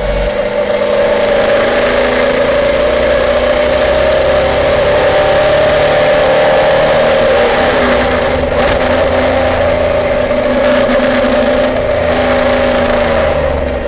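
Race car engine heard from inside the cockpit while the car is driven, a loud steady engine note that wavers slightly in pitch, with a short falling glide about seven seconds in.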